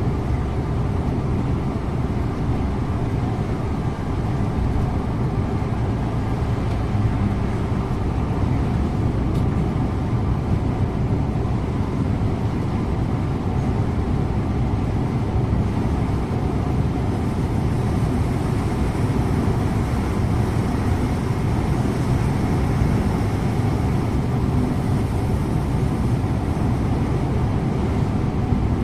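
Scania InterLink bus under way, heard from the driver's seat: a steady engine drone mixed with tyre and road noise.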